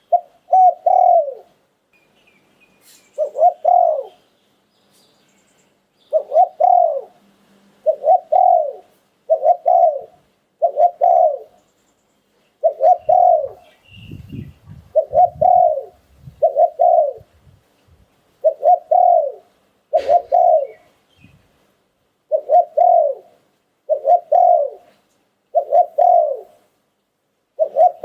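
Spotted dove (nok khao yai) cooing over and over in the 'liu tan' style, a run of short, low coo phrases about every second or so, falling slightly in pitch at the end of each. A few faint low thumps near the middle.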